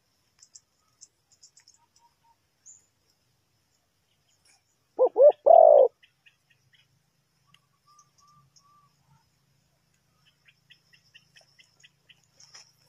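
Spotted dove cooing once, two short notes followed by a longer one, about five seconds in. Faint chirps and ticks of small birds sound around it.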